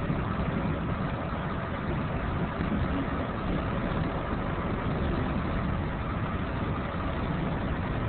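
Steady rumble of a moving Amtrak passenger train, heard from inside the coach through a cell-phone microphone.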